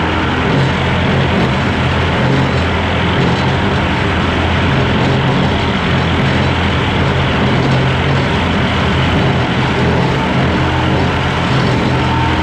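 Skid steer engine running steadily under load, with a hydraulic brush-clearing attachment at work.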